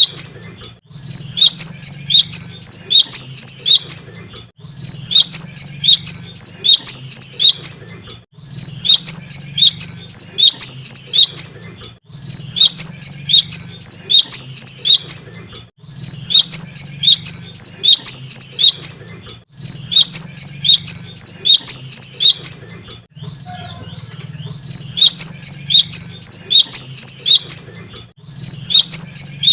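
Cinereous tit (gelatik batu) singing: phrases of rapid, high, repeated chirping notes about three seconds long, each followed by a short pause, over a steady low hum.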